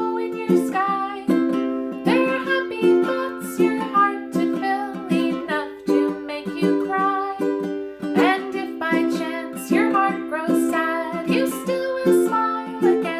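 A small string instrument strummed in a steady rhythm, playing the chords of a children's song.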